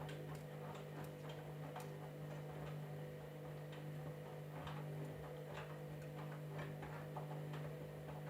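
Candy washing machine running, with a steady motor hum and irregular light clicks and ticks over it.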